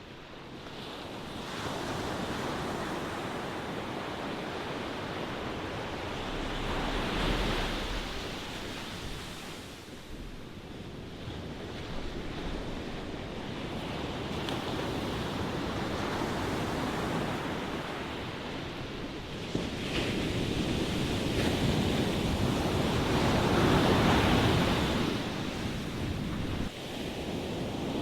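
Ocean waves breaking and washing on a shore, the surf rising and falling in slow swells every several seconds, with a little wind noise on the microphone.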